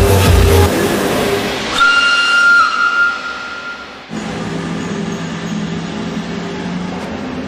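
Background music with a heavy beat stops, then a train gives a long, steady, high-pitched tone for about two seconds. About four seconds in, it cuts to a train running steadily.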